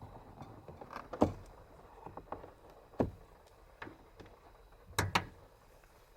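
A scattered series of light knocks and clicks, as of things being handled and set down in a small enclosed space, with sharper knocks about a second in, at three seconds, and twice just after five seconds.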